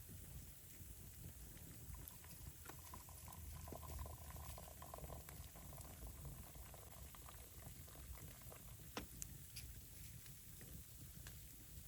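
Faint liquid bubbling, as of something simmering, with a few sharp clicks about nine seconds in.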